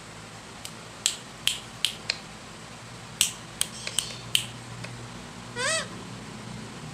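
A string of about ten sharp clicks, then one short pitched parrot call that rises and falls, a little before the end.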